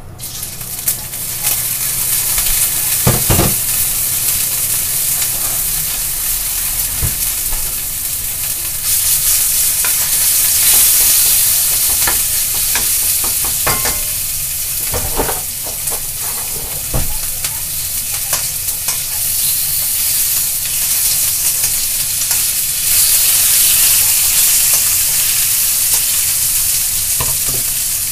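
Sliced meat sizzling in hot oil in an iron wok, the hiss rising about a second in as the meat goes into the pan. A wooden spatula knocks and scrapes against the wok as it stirs.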